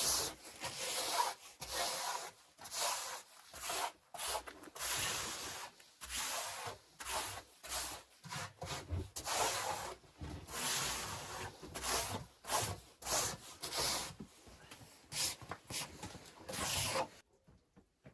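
Repeated rough scraping strokes, about one to two a second, that stop near the end.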